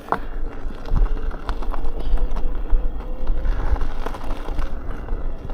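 Electric unicycle with a street tire riding over a dirt road: a faint motor whine slowly rising in pitch over a steady low rumble, with scattered clicks from the loose surface.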